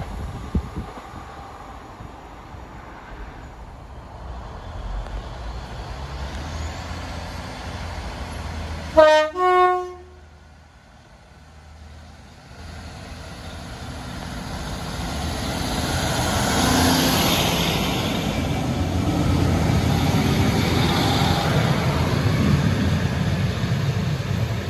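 Train horn giving a short two-tone blast, a lower note then a higher one, about nine seconds in, over the rumble of rail traffic. A few seconds later a train's running noise builds up over several seconds and stays loud as it passes.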